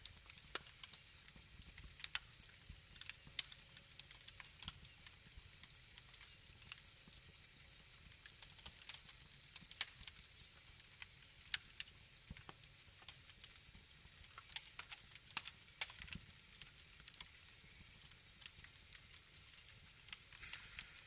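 Wood fire crackling: irregular sharp snaps and pops, a few louder than the rest, over a soft steady hiss.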